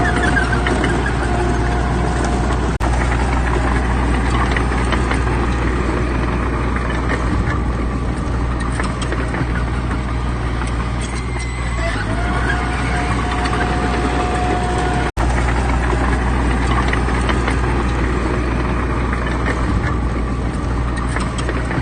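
Heavy diesel earthmoving machinery, bulldozer and dump truck engines, running steadily with a deep low rumble and a held whine that comes and goes. The sound breaks off for an instant twice.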